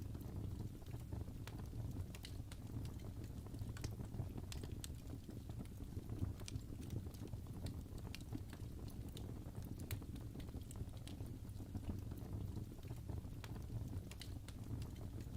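Wood fire burning in a fireplace, crackling: irregular sharp pops and snaps from the burning logs over a steady low rumble of the flames.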